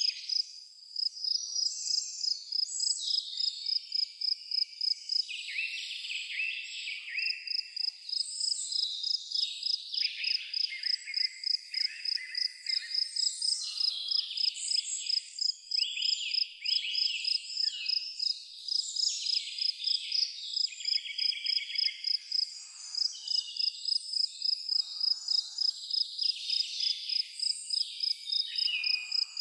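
A cricket chirping in an even, steady pulse, about two to three chirps a second, while several birds sing varied, whistled phrases over it.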